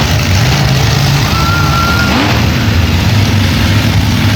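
Monster truck engine running, a loud, steady low rumble, with a short high whistle about a second and a half in.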